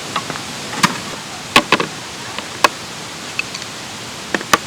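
Steady rush of a mountain stream, with about six sharp knocks or taps at irregular intervals, two of them close together near the end.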